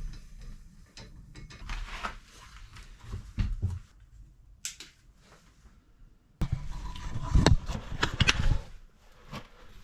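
Scattered metallic clanks and knocks of hands and tools working on a car, the wheel being refitted and the car let down off its jack, with a louder run of clatter starting suddenly about six and a half seconds in.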